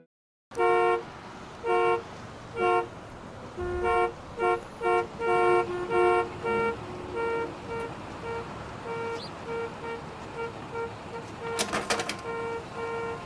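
Vehicle horn honking in short toots of a single pitch: a few spaced honks, then a quick run of them. The toots then carry on fainter at a steady beeping pace. A brief cluster of clicks comes near the end.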